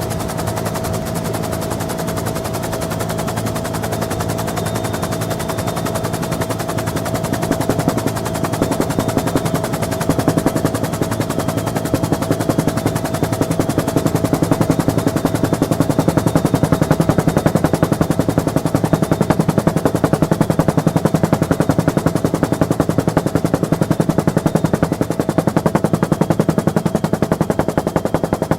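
Bell UH-1N Twin Huey helicopter heard from on board: rapid, even main-rotor blade chop over the steady drone and whine of its twin turbine engines. The chop grows louder about a third of the way through.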